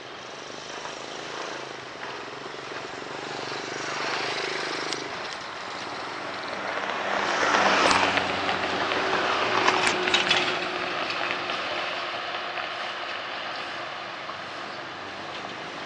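A train running past, with the steady rumble and rail noise of a moving train. It grows louder to its loudest about eight and again about ten seconds in, then eases off.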